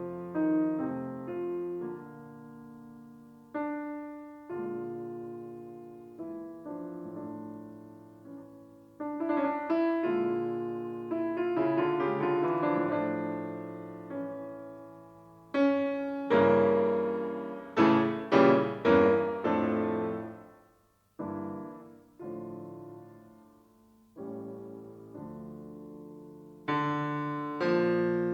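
Solo piano music: slow notes and chords that each ring and die away, growing fuller and louder about two-thirds of the way through.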